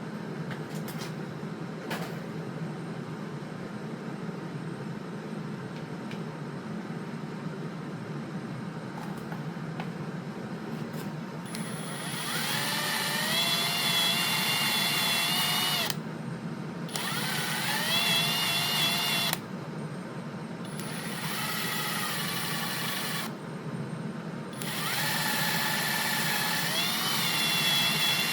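A handheld drill-type power tool run in four bursts of a few seconds each, its motor whine rising as it spins up and then holding steady. A steady low hum comes before the first burst.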